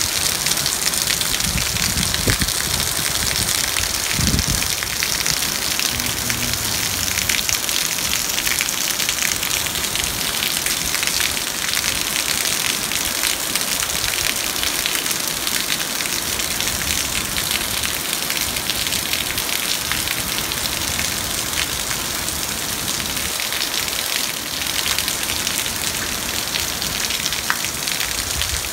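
Heavy downpour: dense rain falling and splashing steadily, with a brief low thump about four seconds in.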